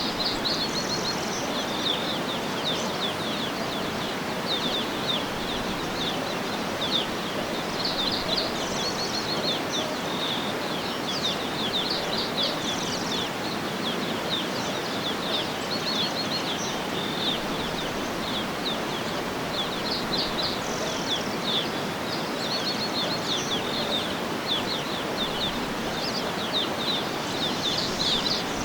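Birds chirping in quick repeated trills of short high notes, over a steady even rush of background noise.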